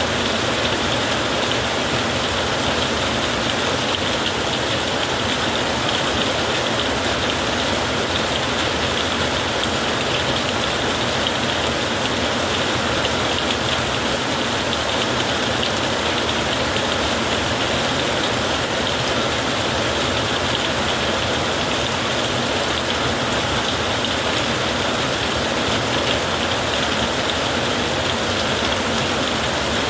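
Heavy rain pouring steadily, an even hiss of water with no thunder and no change in level.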